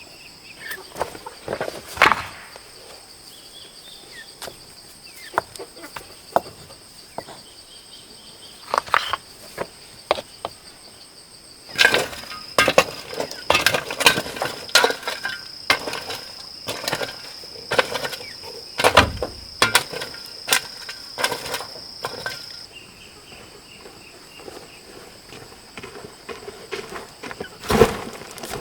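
A steady high insect drone, with irregular sharp knocks and thuds of hand work over it. The knocks come in a dense run through the middle.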